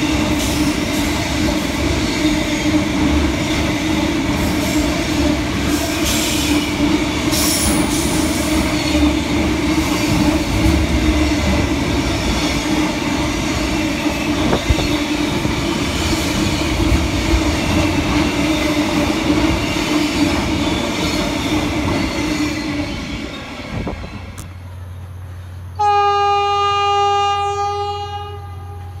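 A long container freight train passing close at speed: steady wheel and wagon noise with a steady tone running through it, fading as the last wagon goes by about 23 seconds in. About two seconds later a single steady horn blast sounds for about two seconds.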